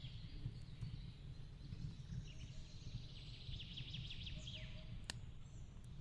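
Fireplace ambience: a log fire's steady low rumble with a few sharp crackles, one loud pop about five seconds in. A bird's rapid high trill of short notes sounds over it in the middle.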